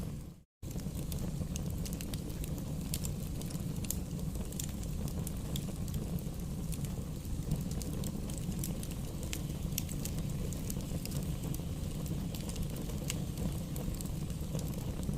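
Wood fire burning in a fireplace: a steady low rumble of flames with scattered sharp crackles and pops of the burning logs. The sound dips to silence for a moment about half a second in, then resumes.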